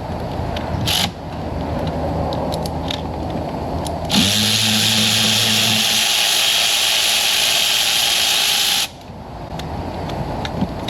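A cordless power tool gives a brief burst about a second in, then runs in a steady whir for about four and a half seconds before cutting off suddenly. It is spinning out a spark plug.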